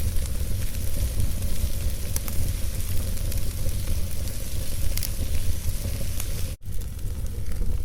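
Wood fire burning in a fireplace: a steady low rumble and hiss with scattered sharp crackles and pops from the burning logs. The sound drops out for a split second about six and a half seconds in.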